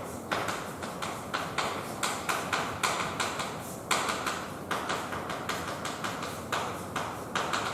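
Writing on a board: irregular taps and scrapes, a few a second.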